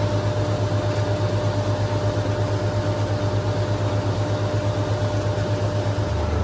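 Tractor engine running steadily, heard as a low hum with a quick even pulse and a faint steady whine above it. The hum shifts lower near the end.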